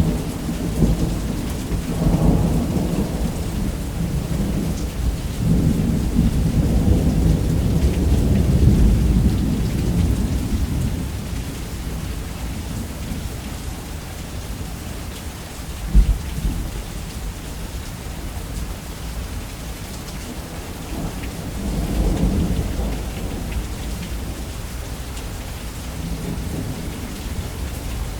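Steady heavy rain on a roof with rolling thunder: a long low rumble swelling from about two seconds in and fading by about eleven seconds, a sharp low crack around sixteen seconds, and another rumble rolling in near twenty-two seconds.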